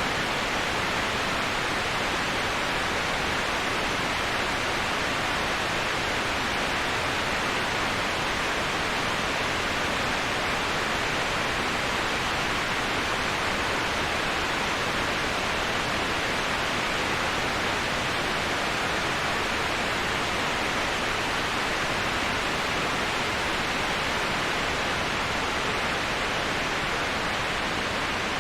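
Waterfall white noise: a steady, even rush of falling water that does not change, brighter and hissier than deep.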